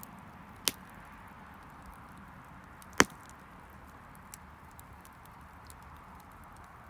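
Wood bonfire crackling: faint ticks throughout over a low hiss, with two sharp pops, one under a second in and a louder one about three seconds in.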